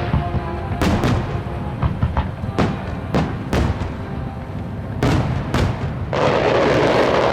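Fireworks going off, about five sharp bangs at irregular intervals, with music playing underneath. Near the end a loud, dense hiss of noise sets in and runs on.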